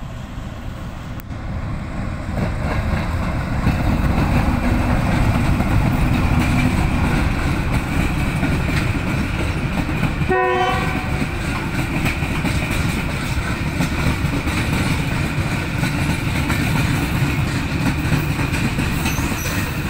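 Pakistan Railways diesel locomotive passing with a long freight train of covered goods wagons, a steady heavy rumble of engine and rolling wagons. It grows louder over the first few seconds as the locomotive nears, then holds steady as the wagons roll by. A brief tone sounds about halfway through.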